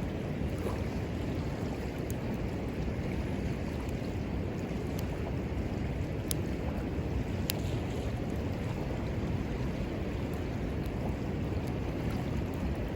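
Steady rush of river water, with a few sharp crackles and pops from the wood fire, two of them standing out past the middle.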